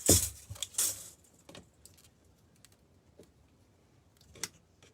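Thin metal ribbon being handled and pressed into place: a few sharp crinkling clicks and scrapes in the first second and a half, the loudest right at the start, then a single click near the end.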